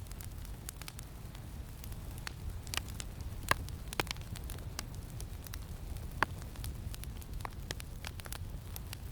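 Campfire crackling: irregular sharp pops and snaps of burning wood, the loudest about three and a half seconds in, over a steady low wind rumble.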